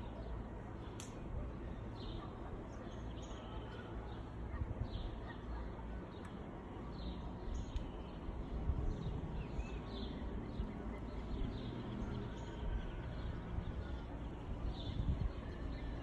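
Birds chirping: many short, high calls scattered irregularly over a steady low rumble of background noise.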